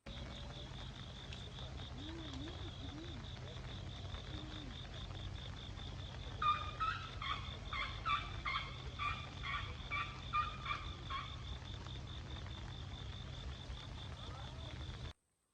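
A bird calling about nine times in quick succession, over a steady low hum and a fast-pulsing high tone.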